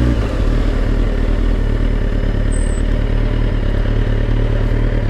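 Kawasaki ZX-10R's inline-four engine running steadily at low revs as the motorcycle creeps through slow traffic.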